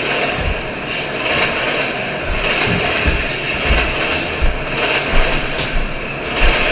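Freight cars of a long mixed freight train rolling past at speed: a steady rumble and rail noise with repeated low thumps.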